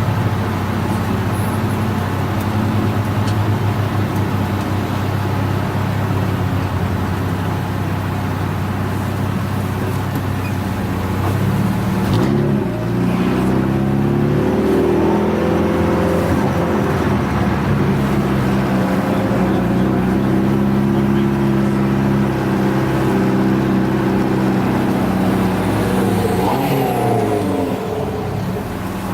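Turbocharged Subaru WRX STi flat-four engine heard from inside the car, running at low revs with a steady hum. About twelve seconds in the engine speed rises and then wavers up and down at moderate revs, easing back near the end.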